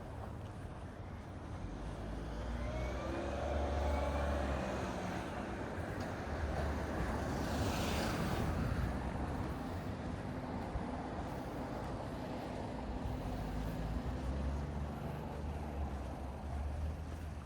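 Road traffic on a street: engines rumbling and tyres hissing as vehicles pass, with one passing closer about eight seconds in.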